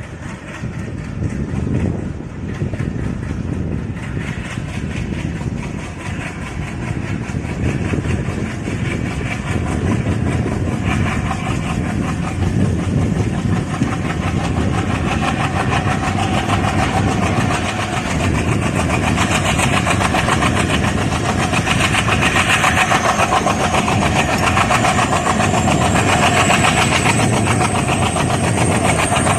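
ALCO diesel locomotive engine running with its fast, rough exhaust chatter, getting steadily louder over the stretch. A thin high whine rises slowly in pitch through the second half.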